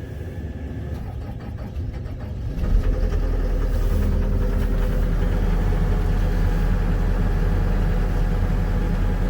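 Diesel engine of a John Deere 330G skid steer loader cranking on a cold start, with the glow plugs just cycled and the block heater not plugged in. It catches about two and a half seconds in and settles into a steady idle.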